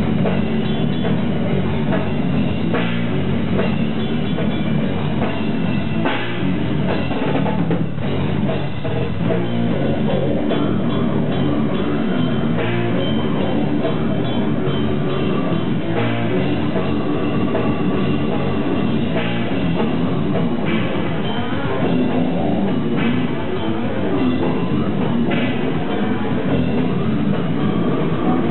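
Live death-metal band playing at full volume: distorted electric guitars and bass over a fast drum kit. The sound is dense and unbroken, with the dull top of a low-quality recording.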